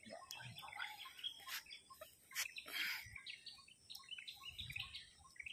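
Several birds chirping in short notes, with a quick repeated short call underneath and a few soft clicks and rustles.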